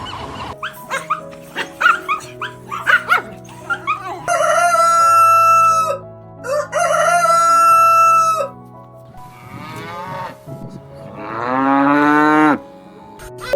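Rooster crowing twice, each crow a long held call of about two seconds, after a run of short, quick calls; a lower call that rises and then holds follows near the end.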